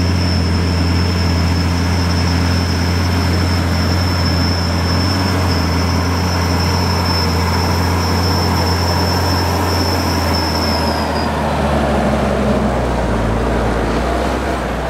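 Large diesel farm machine's engine running steadily under a high-pitched whine. The whine fades out about eleven seconds in, and the engine note drops slightly soon after.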